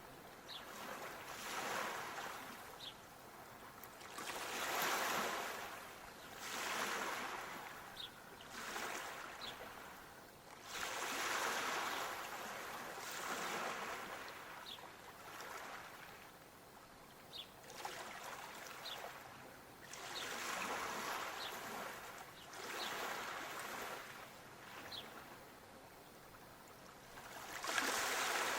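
Small waves washing in, a hiss that swells and fades every one to three seconds. Faint short high chirps come now and then.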